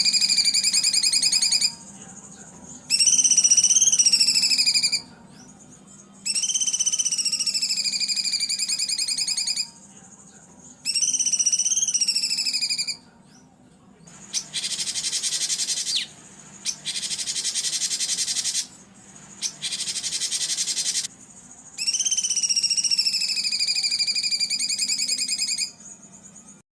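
Songbird song from a masteran training recording: repeated rapid, trilled phrases of about two to three seconds, separated by short pauses. Partway through come three harsh, buzzy bursts, the rough 'tembakan' phrases, before the trilled phrases return. A faint steady hum lies underneath.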